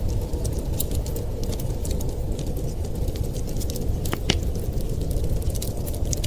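Wood fire crackling in a fireplace, a rapid scatter of small snaps and one louder pop a little after four seconds in, over a steady low rumble.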